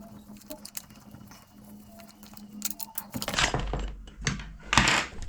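Clicks, knocks and scraping rustles of hand tools and the brushcutter's plastic starter and engine covers being worked loose and lifted off, busiest over the last two seconds. A steady low hum runs underneath for the first three seconds.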